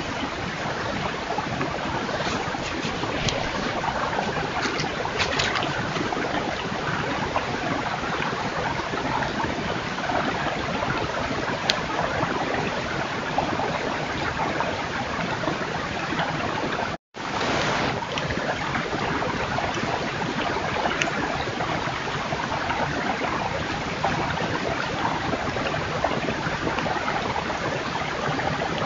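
Steady rushing noise from a trail camera's microphone, with a few faint clicks; it drops out completely for an instant about two-thirds of the way through.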